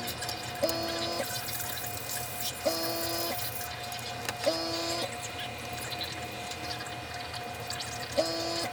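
Airbrush run off a compressor while being cleaned of lacquer paint: a short pitched burst of air through it about every two seconds, over a steady hum and hiss.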